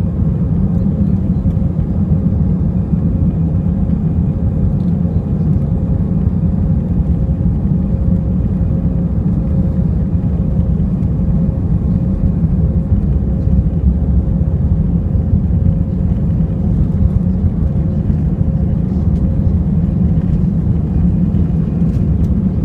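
Steady low rumble of an airliner's jet engines and airflow heard inside the cabin, with a faint steady hum above it.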